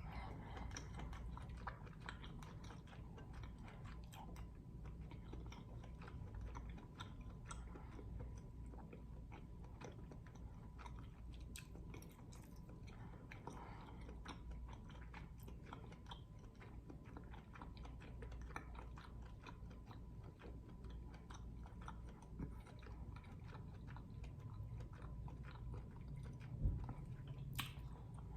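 A person chewing food close to the microphone, with many small wet clicks throughout. There is one louder knock near the end.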